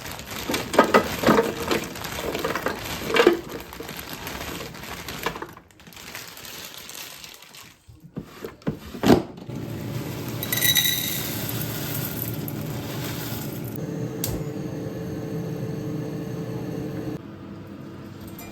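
Kitchen clatter of dishes and utensils being handled, with clicks and knocks. Then a kitchen appliance beeps once and runs with a steady hum.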